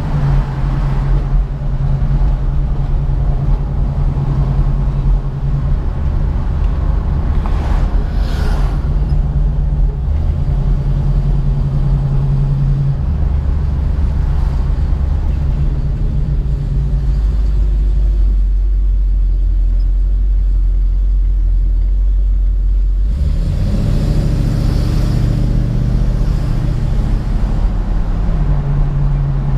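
1967 Ford Mustang's 289 V8 engine running on the road, a steady low drone that shifts in pitch a few times with throttle and speed. About three-quarters of the way through the note changes and opens up under more throttle.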